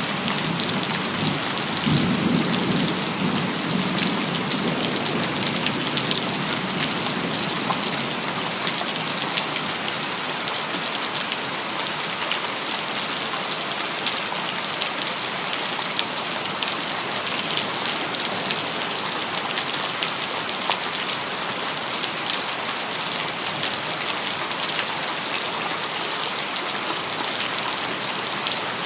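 Steady rain falling, with a low rumble of thunder in the first few seconds.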